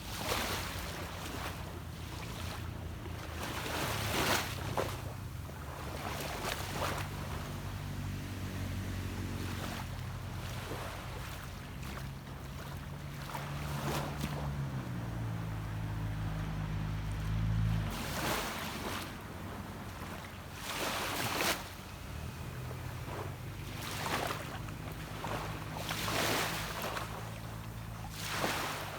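Waves washing onto a beach in repeated surges every few seconds, with the low drone of a boat's engine out at sea from about a quarter of the way in; the engine's pitch shifts partway through and it cuts off sharply a little past halfway.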